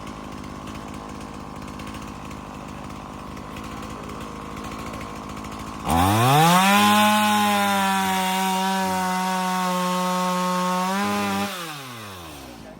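Two-stroke chainsaw running low, then throttled up about halfway through to a high, steady scream held for about five seconds, before the throttle is released and the pitch falls away.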